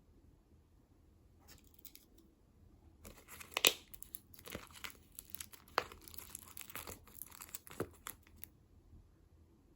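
A snack wrapper being crinkled and torn open: a short rustle, then about five seconds of dense crackling and tearing with a few sharp louder rips, stopping near the end.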